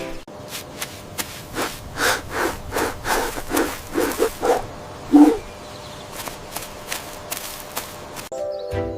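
A farm animal making short calls, about a dozen in quick succession, with the loudest about five seconds in, amid many clicks and rubbing noises.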